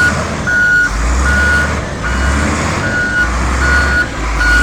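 Reversing alarm of a payloader (wheel loader) sounding a steady single-tone beep, repeating a little faster than once a second, over the low rumble of its diesel engine as it backs up.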